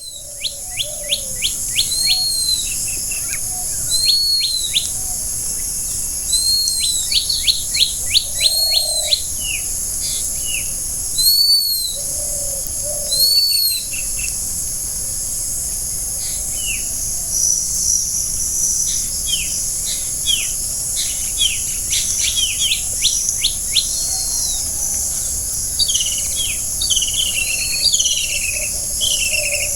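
Wild birds chirping and singing in a forest: runs of quick, arching chirps repeated every second or so, with a few lower calls between. A steady high-pitched hiss lies under them throughout.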